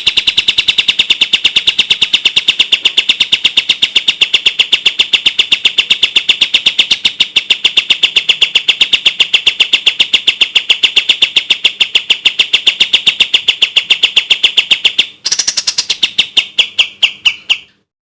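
A kapas tembak bird singing its rapid, clear 'tembak' (shooting) song: a fast, even train of high notes, about eight a second. It breaks off briefly near the end, gives a few more notes and stops.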